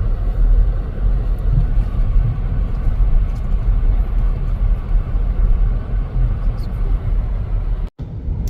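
Car road noise heard from inside a moving car: a steady low rumble of engine and tyres. It cuts out abruptly for a moment near the end.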